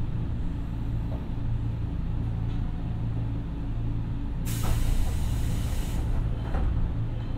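Nankai 2200-series electric train heard from inside the car: a steady low rumble and hum. About four and a half seconds in, a sharp hiss of air from the air brakes lasts about a second and a half.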